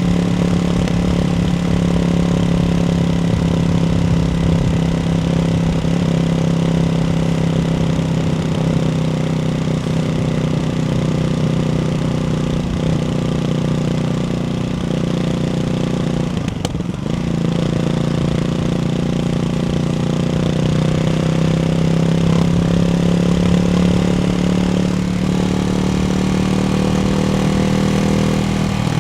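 Ducati Hypermotard 698 Mono's single-cylinder engine through a baffled Termignoni exhaust, running at a steady speed. The note dips briefly a little over halfway through, then its pitch rises slightly toward the end.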